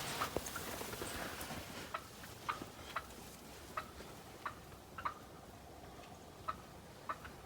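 Wild turkey clucking: a string of short, sharp notes, about one every half second to a second.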